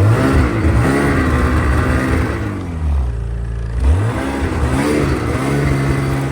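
Snowmobile engine revving up and easing off under throttle. The pitch jumps up right at the start, sinks low for about a second, climbs again about four seconds in, then holds steadier near the end.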